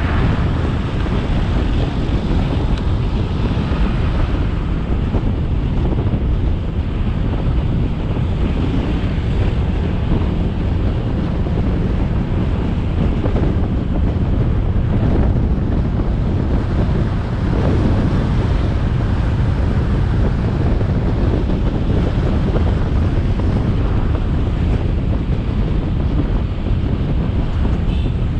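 Wind rushing over the action camera's microphone on a moving motorbike, a steady low buffeting over the bike's engine and road noise.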